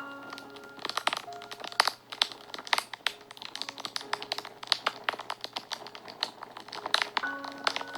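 Fire crackling and popping: a dense run of sharp, irregular snaps. Soft held notes of background music come in now and then, near the start, about a second in, around four seconds and near the end.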